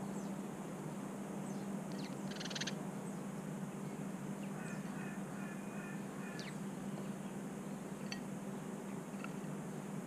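Small garden birds calling over a steady low hum and hiss: a short fast trill about two and a half seconds in, a run of short repeated calls a little later, and a couple of single chips near the end.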